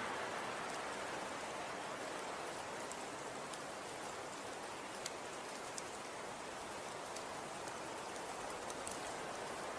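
Falling snow making a steady hiss, with scattered faint ticks of flakes or pellets striking surfaces.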